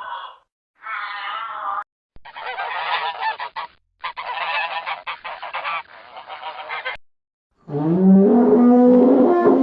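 A string of separate animal calls. First a short pitched call, then a few seconds of rapid, harsh honking calls with a break near the middle, and near the end a loud, deep, drawn-out call that bends up and down in pitch.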